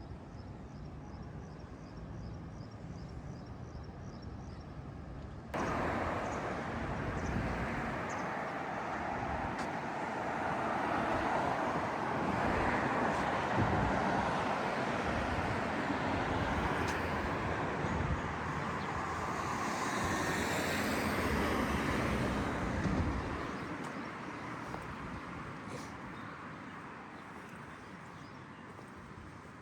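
Street traffic noise that jumps up suddenly about five seconds in, then swells as a vehicle passes close and fades away over the last several seconds.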